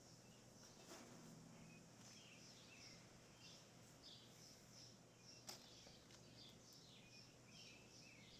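Faint birds chirping over a quiet outdoor background, in many short repeated calls. A sharp click comes about a second in and a louder one about five and a half seconds in.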